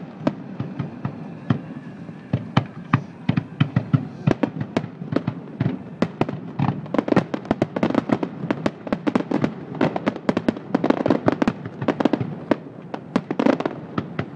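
Aerial fireworks shells bursting in quick succession, many sharp bangs and cracks a second, growing denser and louder around the middle.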